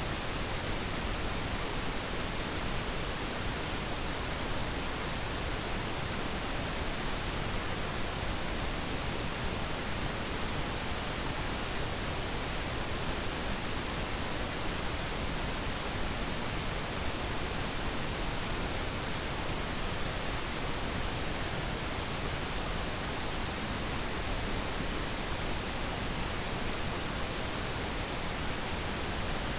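Steady pink noise: an even, unchanging hiss across all pitches, with no other sound.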